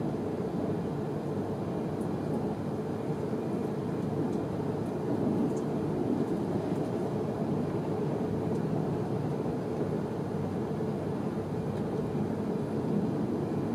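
Steady low rumble inside the passenger car of a Pendolino electric train running at speed.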